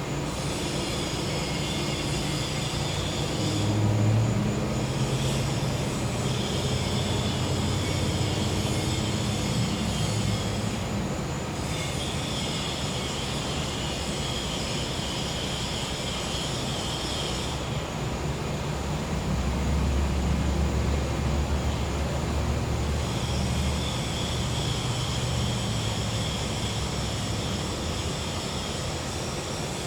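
Gas-powered generator humming steadily, its low drone shifting a little in pitch and swelling louder for a few seconds past the middle. Over it an insect chorus of cicadas and crickets sings high and buzzing, breaking off and starting again several times.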